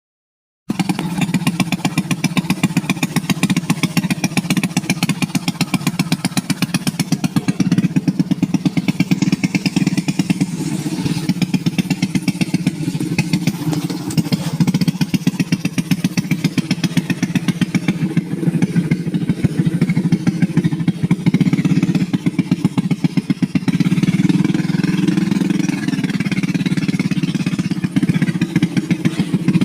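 Small motorcycle engine running steadily, with a rapid, even firing pulse. The sound cuts in abruptly just under a second in.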